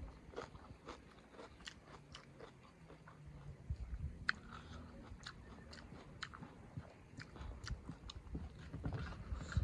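A person chewing and eating close to the microphone: a run of short, sharp, wet mouth clicks and smacks through the mouthful.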